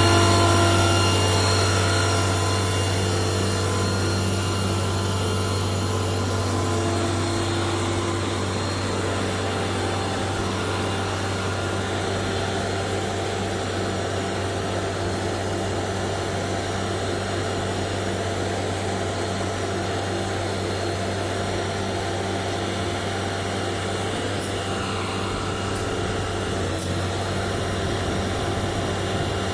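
A heavy machine running with a steady, unchanging low drone, the sound of a truck-mounted concrete pump's engine and hydraulics at work.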